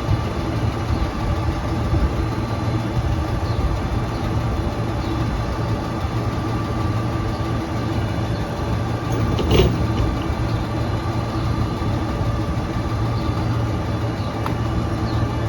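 Autocar ACX garbage truck's diesel engine running steadily, with a steady whine above it and a single sharp knock about nine and a half seconds in.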